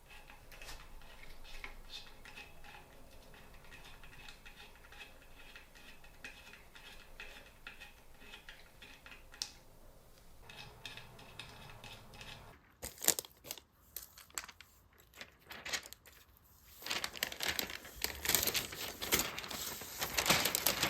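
Packaging crinkling and tearing as ceiling fan blades are unwrapped, with scattered handling clicks; faint at first, it turns loud and dense about two-thirds of the way through.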